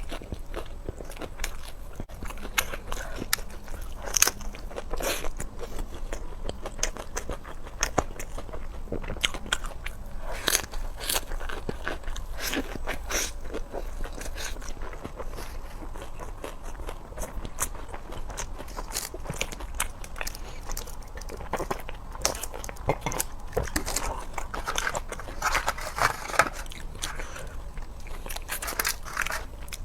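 Close-miked eating: a person biting into and chewing crunchy food, with many quick crisp crunches and crackles.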